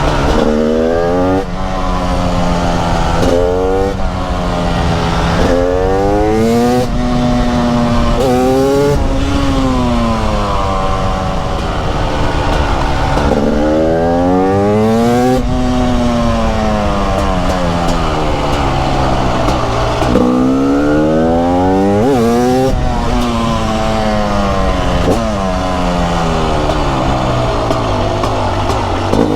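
TM 300 SMR supermoto's 300 cc single-cylinder two-stroke engine under way. Its pitch climbs repeatedly as the throttle is opened through the gears, then drops as it comes off the throttle, in a run of rising and falling sweeps.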